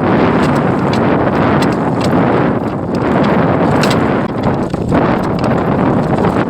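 Strong wind buffeting the microphone, a loud steady rumble, with scattered light clicks and knocks through it.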